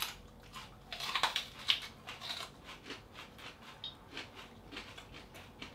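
Crunching of raw, crisp Monkey Face Red chilli pods being bitten and chewed: a run of irregular short crunches and crackles, loudest about a second to two seconds in.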